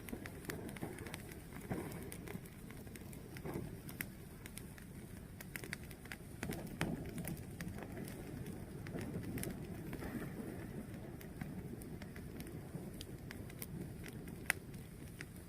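Fire burning steadily with a low rumble and scattered sharp crackles and pops, one louder pop near the end.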